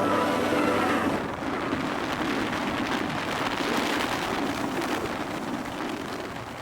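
Steady rain, an even hiss, as the music dies away in the first second.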